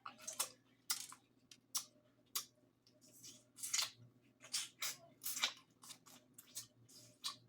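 Lobster tail shell being broken open: about fifteen sharp, irregular crackling snaps of shell close to the microphone.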